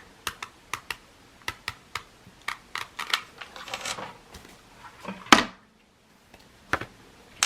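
Paper card pieces and craft supplies handled on a tabletop while gluing: a string of small irregular clicks and taps, with a louder knock about five seconds in.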